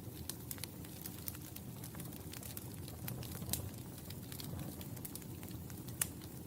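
Wood fire crackling in a fireplace: irregular sharp pops and snaps over a low, steady rumble of flames, with one louder pop near the end.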